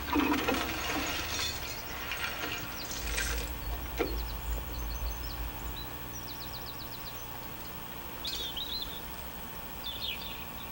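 Birds chirping in short quick series, against a low background hum. Near the start comes a brief rustle, and about three seconds in a sharper knock or scrape with a low rumble under it.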